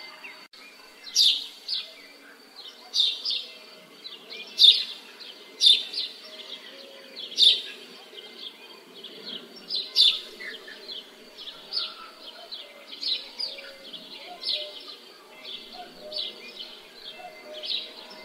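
Birds calling in a village soundscape: sharp, high chirping calls repeat about once every second or two, loudest in the first half, with softer calls in between, over a faint steady low rumble of background ambience.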